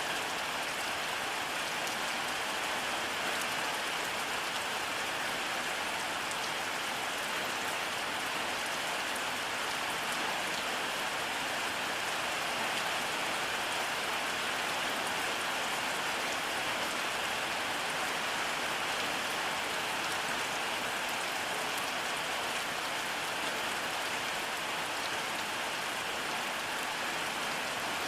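Steady rainfall, an even hiss of drops with fine patter on top, holding level throughout with no thunder.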